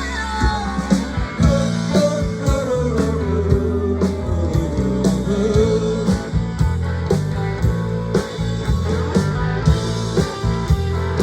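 Blues-rock band playing an instrumental break: a lead guitar solo with bending notes over bass and a steady drum beat.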